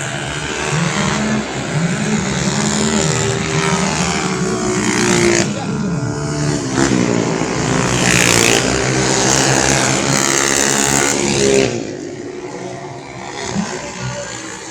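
Several racing 125cc automatic scooter engines run at high revs as a pack goes by, their pitch rising and falling, then falls away about twelve seconds in.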